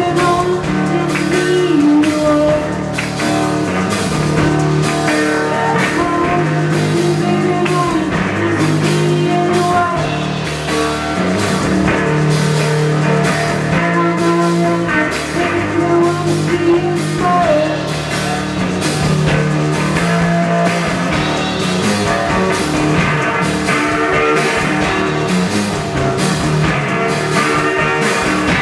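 Blues-rock music played on electric guitar and drum kit, with a steady beat.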